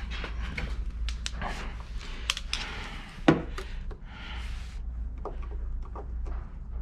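Screwdriver and hand-tool work on car interior trim: light clicks, taps and scrapes of metal on metal and plastic, with one louder knock about three seconds in, over a steady low hum.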